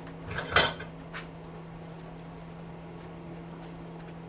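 Metal parts clinking: one sharp clank about half a second in, with lighter knocks just before and after it.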